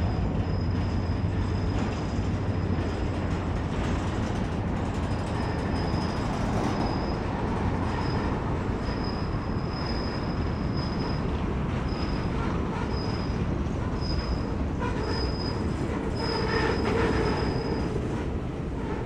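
Freight train cars rolling past with a steady rumble of wheels on rail, and a high-pitched wheel squeal that comes and goes from about five seconds in.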